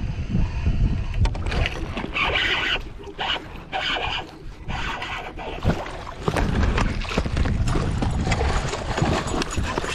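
Wind rumbling on the microphone aboard a fishing kayak, with bursts of hiss and scattered knocks and clicks from movement and gear in the boat.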